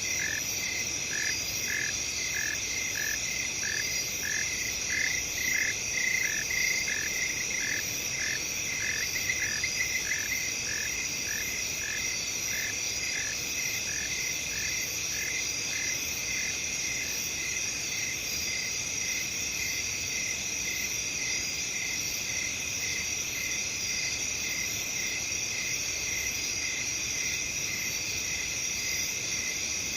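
Night chorus of crickets and other insects, a steady high trilling. A second chirping call pulses about twice a second over it and stops about ten seconds in.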